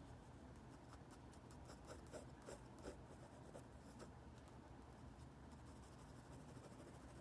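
Faint scratching of a drawing tool on paper: a run of short strokes between about one and four seconds in, lighter strokes after.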